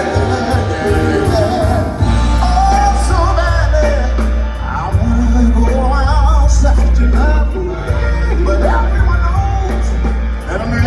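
Live soul ballad: a male vocal group singing with vibrato over a backing band with a heavy, steady bass.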